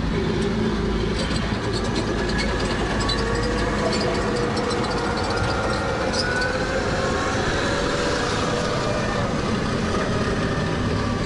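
Heavy military vehicle engine running steadily, with a constant drone and a few faint squealing tones over it.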